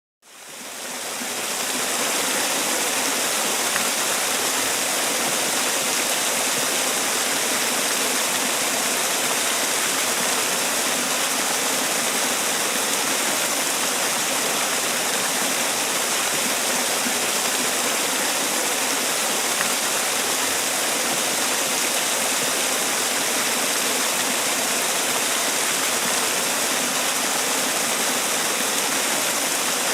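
Water falling over a man-made waterfall: a steady, even rush that fades in over the first two seconds.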